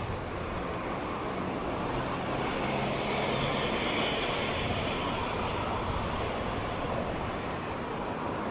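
Street traffic with a motor vehicle passing, growing louder to a peak about three to four seconds in and then easing off.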